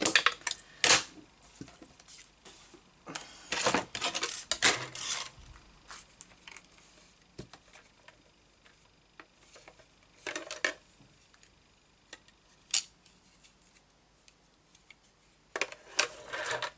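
Handling of cardstock and small hard craft tools on a desk: scattered clicks, clatters and paper rustles with quiet gaps, as card is cut and small pieces such as die-cutting plates are set down.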